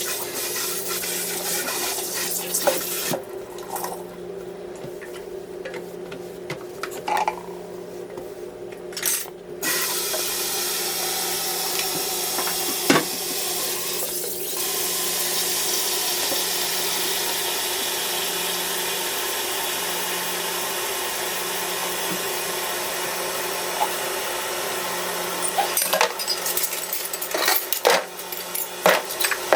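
Water running from a tap, starting about a third of the way in and stopping near the end, with scattered knocks and clatter before and after, over a steady low hum.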